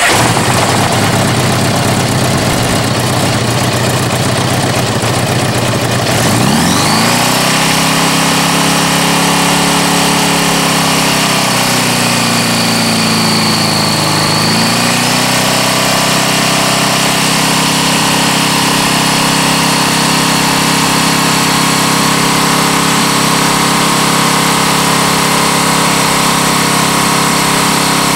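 Honda GL1100 Goldwing's flat-four engine, cold, running at a low speed and then revved up about six seconds in and held at a steady high speed of around 4000 rpm. It dips briefly and recovers about halfway through.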